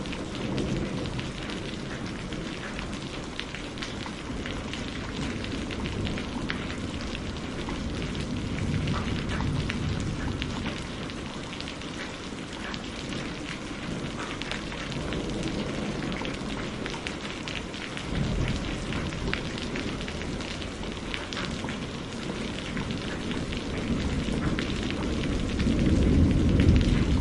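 Steady rain pattering on a surface, with many fine drop ticks, under thunder rumbling low that swells now and then and grows louder near the end.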